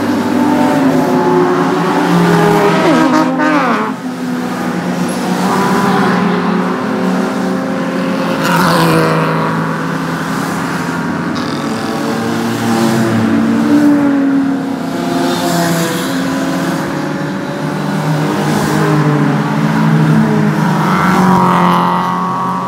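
Several classic car engines running and revving as the cars pull away along a race track's straight. The engine pitch sweeps up and down a few times, around 3, 9 and 21 seconds in.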